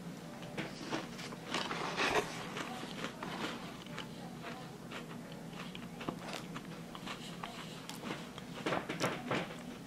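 Crunching and chewing of a crisp maple cream sandwich cookie close to the microphone, in irregular clusters of crackles, loudest about two seconds in and again near the end.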